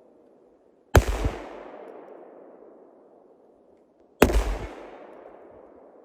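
Two shots from a Desert Eagle pistol in .50 AE, about three seconds apart, each followed by a long echo that dies away over a couple of seconds.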